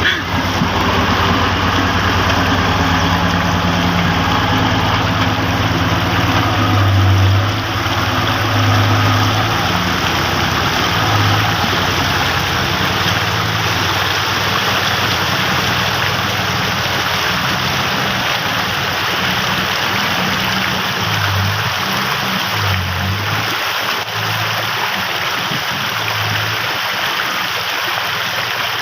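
Loaded heavy truck's engine running as it fords a river, over a steady rush of water. The engine swells louder several times.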